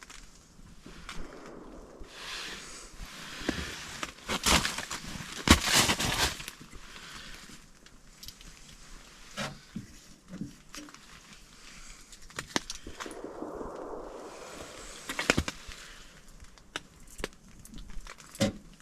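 Ferrocerium rod scraped hard several times to throw sparks into a pile of tinder, with sharp rasping strikes and handling noises between them.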